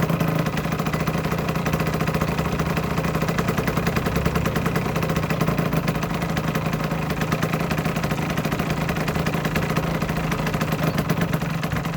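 Aprilia RS125's single-cylinder two-stroke engine idling steadily, with no revving.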